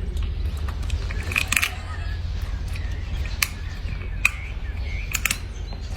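A monkey eating food: scattered sharp crunching clicks over a steady low rumble.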